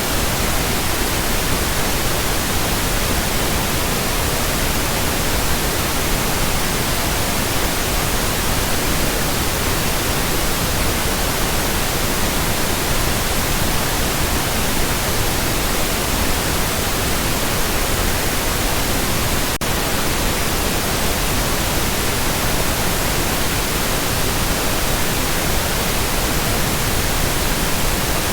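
Steady pink noise: an even, unchanging hiss spread across the whole range, with one tiny click-like break about twenty seconds in.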